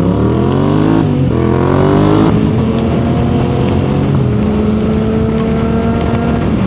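Suzuki GSX-R sport motorcycle engine accelerating hard, its pitch climbing through two upshifts, the first about a second in and the second about two and a half seconds in, then holding a steady note at cruising speed.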